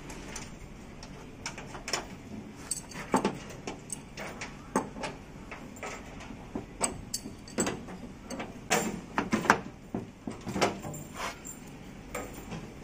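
Irregular clicks and knocks of tools and small parts being handled during air-conditioner installation work.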